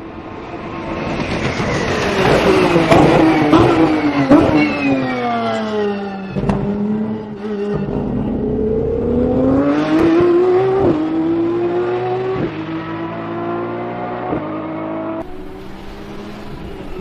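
Lamborghini Essenza SCV12's V12 engine at racing speed. The note falls for several seconds as the car slows and drops sharply once. It then climbs under acceleration, breaking back down three or four times at the upshifts.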